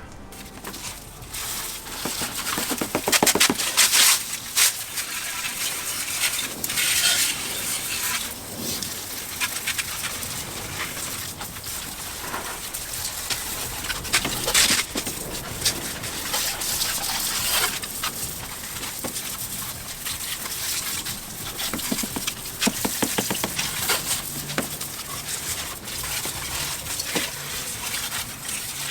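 Plain water spraying onto an engine bay, an uneven hiss and spatter that swells and fades as the spray moves over the parts, rinsing off the degreaser. Brief pitched squeals come through a few times.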